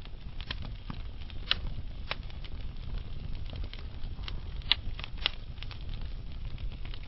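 Wood fire burning slowly in a fireplace: a low steady rumble with irregular crackles and pops from the burning logs, the sharpest pop a little under five seconds in.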